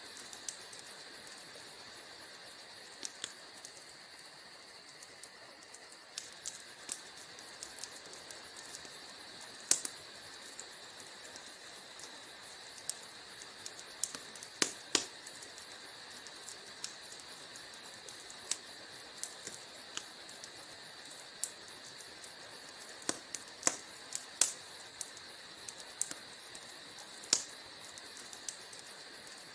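Wood fire in a fireplace crackling: sharp pops and snaps at irregular intervals, a few much louder than the rest, over a steady hiss.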